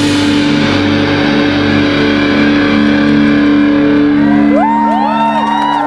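A live rock band's last chord ringing out, held electric guitar notes sustaining after a final crash. Whoops from the crowd start about four and a half seconds in.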